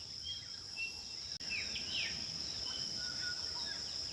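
A steady high-pitched insect drone with birds chattering over it in short downward-sliding chirps.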